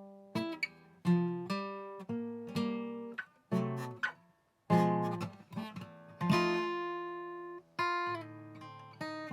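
Acoustic guitar playing a blues in F: plucked chords and single notes, each ringing out and fading, with a brief stop about four seconds in before a fresh chord is struck.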